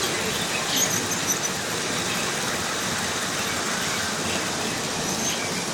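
Model train running on its track: a steady rolling noise, with brief high-pitched wheel squeals about a second in and again near the end.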